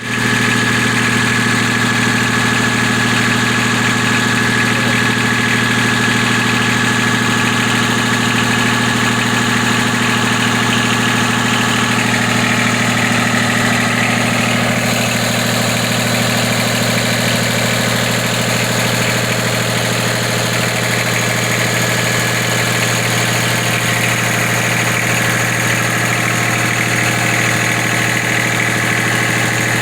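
Engines running steadily in an engine room: a loud, constant drone with a strong low hum and steady higher tones.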